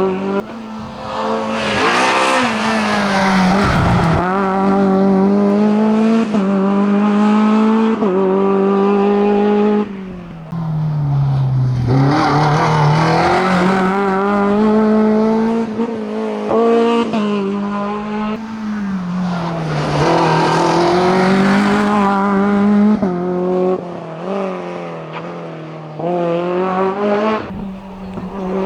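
Racing car's engine at full throttle on a hillclimb, its pitch climbing through the gears and dropping back at each shift, with a couple of deeper dips where it lifts off for corners, about ten seconds in and again near the end.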